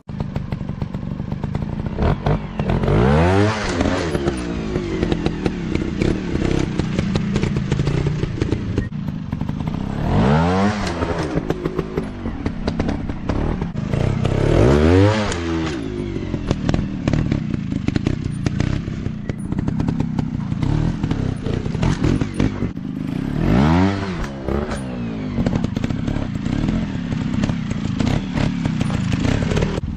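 Off-road dirt bike engines running, revving up hard and dropping back about four times, with clatter and knocks in between.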